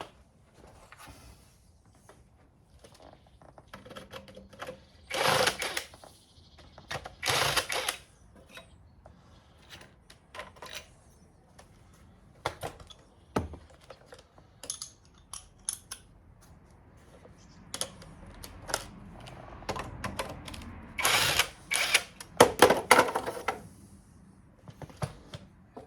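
Metal hand tools, sockets and spanners, clinking and clattering as they are rummaged through in search of a 10 mm. Scattered sharp clicks run throughout, with louder rattling bursts about five, seven and twenty-one seconds in.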